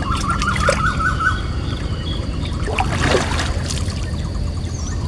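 River water splashing and trickling as a baited set line is handled at the water's surface, over a steady low rumble. There is a short warbling whistle near the start and a louder splash about three seconds in.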